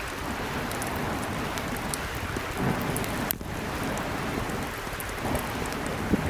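Small mountain stream running steadily, with many small sharp ticks over it and a brief break in the sound a little past the middle.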